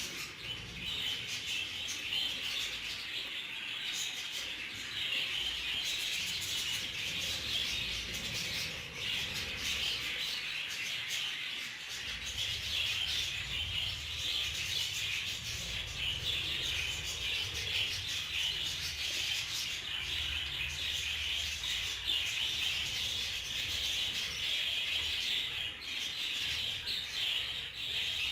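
Many budgerigars chattering and chirping continuously, a dense unbroken flock chatter over a low background rumble.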